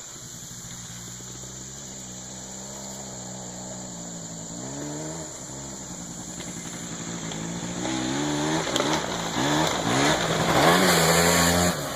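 Small 90cc Scrambler ATV engine revving up and down as it is ridden hard, its pitch rising and falling again and again. It gets louder over the last few seconds.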